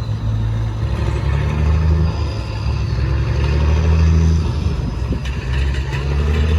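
Heavy truck engine running, its low pitch shifting up and down in steps.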